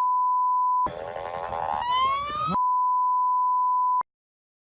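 A steady, high single-pitch beep tone, broken about a second in by roughly two seconds of an emergency siren wailing with a rising pitch. Then the beep returns and cuts off suddenly near the end.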